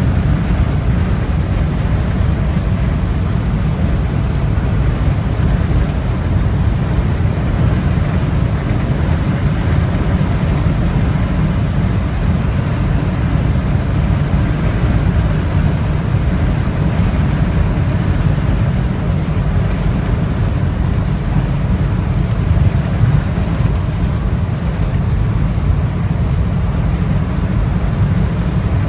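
Snowstorm wind buffeting the microphone, a loud, steady low rumble that flutters without letting up.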